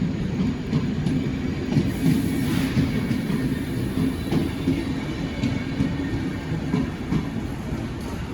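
Train rolling along the tracks: a steady low rumble of wheels on rail with some clatter, easing off slightly in the last few seconds.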